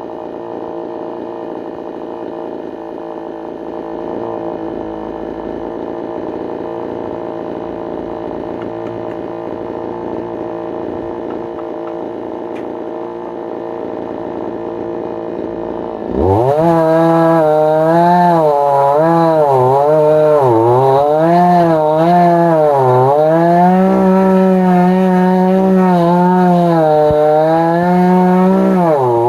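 Chainsaw mounted in a chainsaw mill, idling steadily. About 16 seconds in it is throttled up into a rip cut through a log, running loud at high revs with the engine speed dipping and recovering as it loads in the wood.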